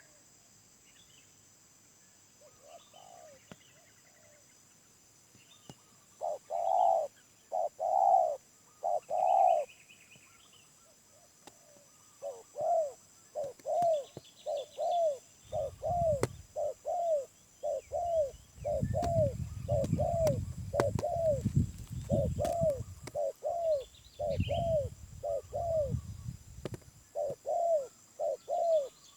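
Spotted dove cooing. Three long coos come after about six seconds, followed by a long, steady run of shorter coos at about one and a half a second. A low rumble sits under the cooing in the second half, and faint chirps of other birds are heard.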